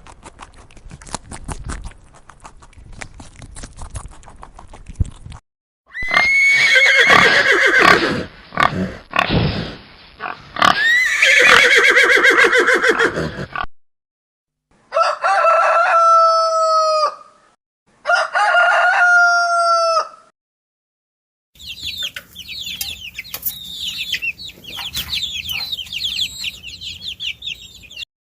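Chickens: after a few seconds of faint rapid clicking, loud squawking calls, then a rooster crowing twice in two matching long calls, then many high-pitched chirps near the end.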